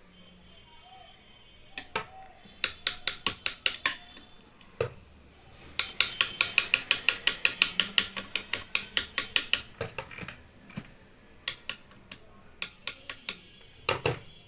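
Runs of rapid, sharp ratchet-like clicks, about five or six a second, in three bursts with pauses between, from the Jack F4 sewing machine's thread tension assembly being worked back into place after its broken tension spring was replaced.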